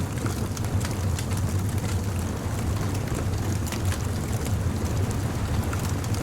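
Bonfire crackling, with scattered sharp pops and snaps over a steady low rumble.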